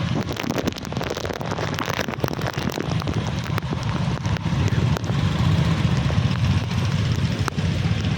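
Heavy rain falling, a steady hiss with many sharp drop ticks, over a constant low rumble.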